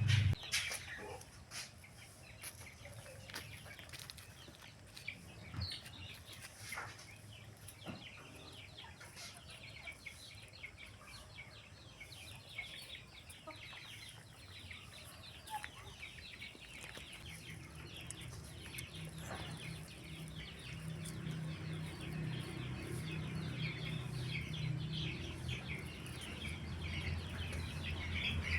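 Chickens clucking and chirping. A low steady hum comes in about halfway through and grows louder toward the end.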